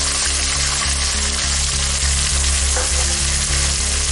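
Julienned vegetables sizzling in a hot metal wok over a high flame, with red chilli sauce just added; a steady frying hiss.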